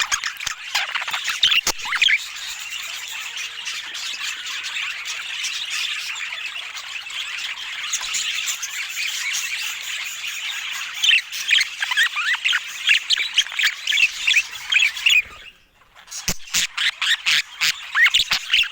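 Budgerigars chattering: a dense, continuous warble of short chirps and squawks. It breaks off abruptly for about half a second some three-quarters of the way in, then resumes as louder, choppier chirps with clicks.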